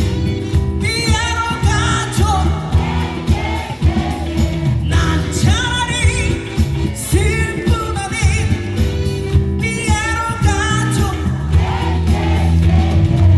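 Live pop band with a woman singing lead. She holds notes with a wide vibrato over a full, bass-heavy backing, pausing briefly between phrases.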